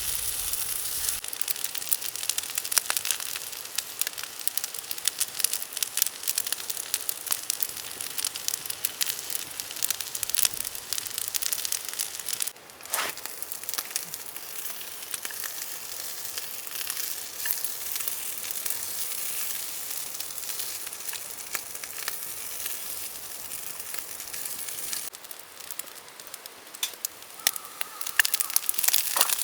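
Fried rice sizzling and crackling in a pan over a wood campfire, with a steady hiss full of small pops. The sizzle drops off briefly about halfway and eases near the end.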